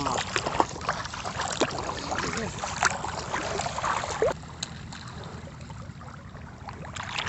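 Water splashing and dripping as a ladder-shaped moi jal net is dragged through a shallow pond, with many short splashes over the first four seconds that then die down to a faint trickle.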